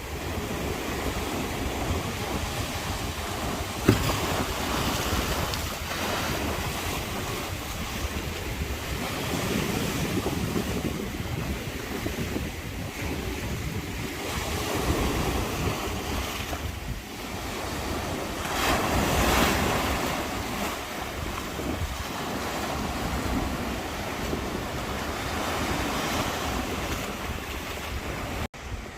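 Sea waves washing in swells, with wind buffeting the microphone. A single sharp knock about four seconds in.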